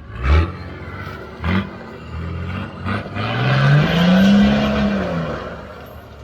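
Off-road four-wheel drive's engine blipped three times in short loud bursts, then revved up and held high for about two seconds before easing off.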